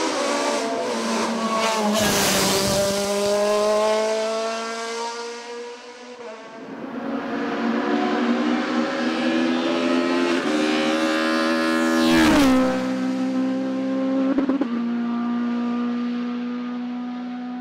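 Racing car engine pulling hard up a hillclimb course, its pitch rising through the revs with a brief dip partway through. Near the end it drops sharply once and then holds a steady note, slowly getting quieter.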